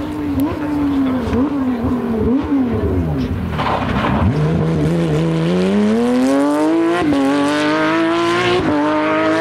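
Porsche 911 rally car's flat-six engine: the revs waver up and down for a few seconds, then the car accelerates hard, the pitch climbing steadily with two quick upshifts near the end.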